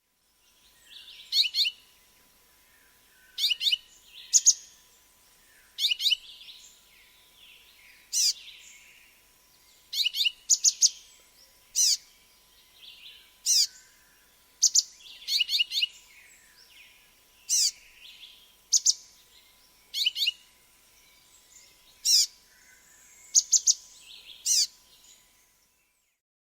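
A bird calling over and over with sharp, quickly falling chirps, some single and some in quick runs of two or three, about every second or two.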